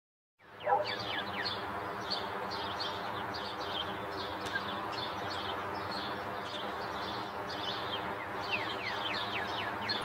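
Birds chirping: a rapid series of short, high chirps that slide downward, several a second, over a steady background hiss. It starts about half a second in.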